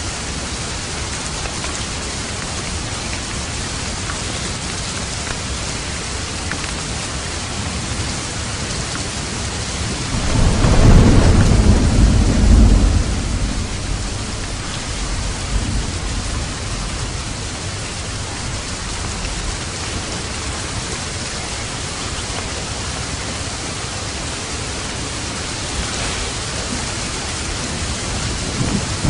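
Steady heavy rain hissing, with a roll of thunder rumbling up about ten seconds in, loudest for a couple of seconds and then fading back into the rain; another rumble begins at the very end.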